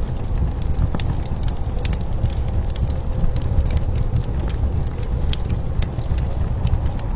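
Wood fire crackling, scattered sharp pops and snaps over the steady low rumble of blizzard wind outside.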